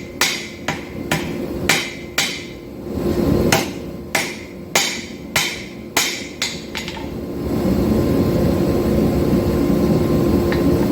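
Hand hammer striking hot 5160 steel bar stock on an anvil, drawing out the blank: two runs of ringing blows about two a second with a short pause between. About seven and a half seconds in, the blows stop and a steady rushing noise takes over.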